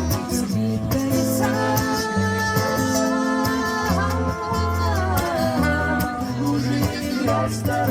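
Live band playing a passage of a Russian estrada song: acoustic guitar strumming over a steady bass line, with a shaker keeping time and a long held melody note that bends in pitch about halfway through.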